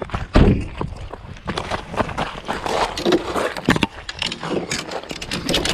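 Irregular knocks, scrapes and rustling from rod-and-reel handling while an angler reels in a freshly hooked fish, with a heavy thump about half a second in.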